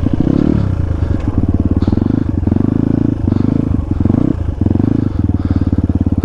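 Dirt bike engine running at low revs with a rapid, even pulse, the throttle opening and closing so the sound swells and dips as the bike is ridden over rough off-road ground.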